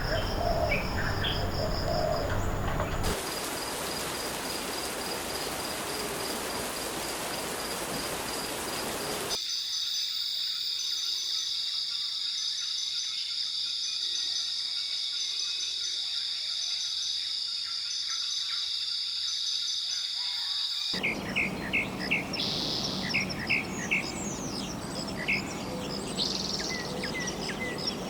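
Rainforest ambience in abruptly cut segments. First birds chirping, then a hiss carrying a steady high insect tone, then a loud steady high-pitched insect drone. Near the end come runs of quick, repeated bird calls over the insects.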